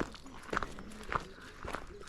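Footsteps of a person walking at a steady pace along an outdoor path, about two steps a second.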